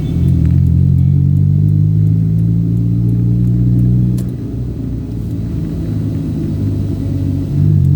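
Low, steady rumble of a moving vehicle heard from inside: a deep drone that eases off about four seconds in and swells again near the end.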